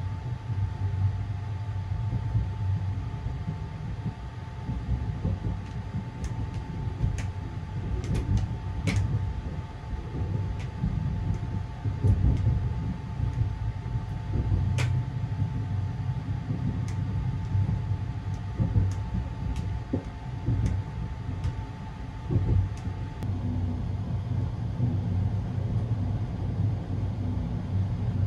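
The Sunrise Express (285 series) sleeper train rumbling steadily, heard from inside a compartment. A steady two-tone hum runs over the rumble and stops about 23 seconds in, and scattered light clicks are heard.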